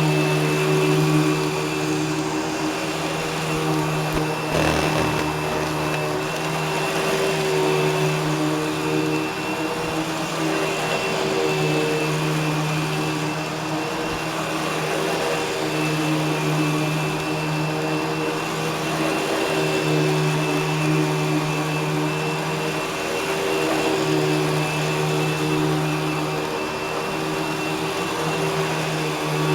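Eureka Boss Smartvac 4870 upright vacuum running on carpet, its motor and brushroll making a steady drone, with a low hum that fades out and comes back every few seconds.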